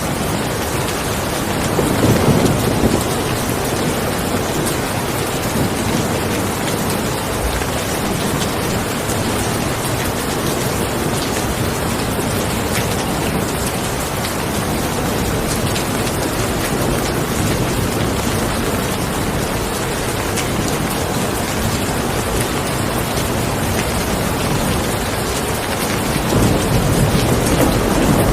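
Steady rain falling, with a low rumble of thunder about two seconds in and another building near the end.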